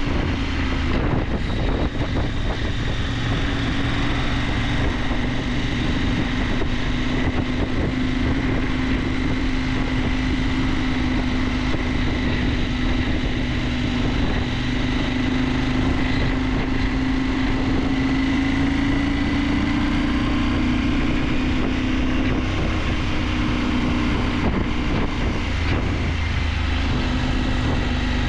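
KTM 890 Adventure's parallel-twin engine running steadily under way, with wind noise on the microphone. A little past halfway the engine note rises slightly, then drops back.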